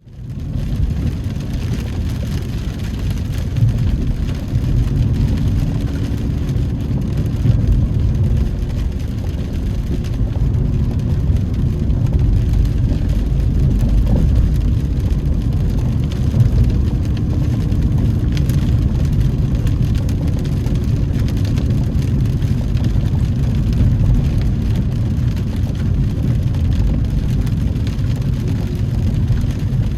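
Car engine and tyre noise heard from inside the cabin while driving on wet roads in the rain: a steady low rumble with a faint engine tone.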